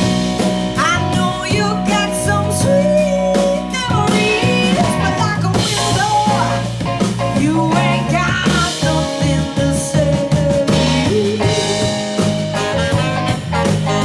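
A live band playing a slow soul-blues song in an instrumental passage. A lead instrument solos with sliding, bending notes over steady bass, guitar and drums.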